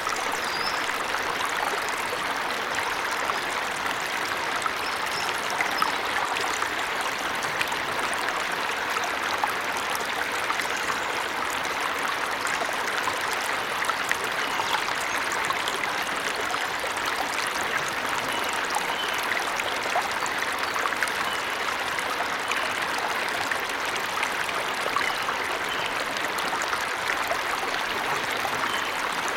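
Waterfall in a forest, steady rushing and splashing of falling water. A few faint, high bird chirps come through now and then.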